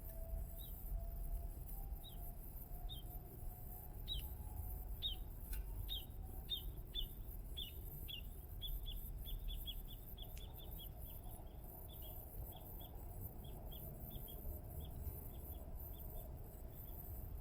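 A bird calling a run of short, high, downward-sliding chirps that start about one a second, speed up into a rapid string near the middle, then slow again. There is a low rumble underneath and a couple of sharp pops.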